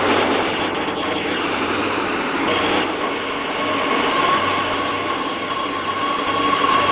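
Madrid Metro 8000-series underground train running, a loud steady rumble with a high steady whine coming in about halfway through.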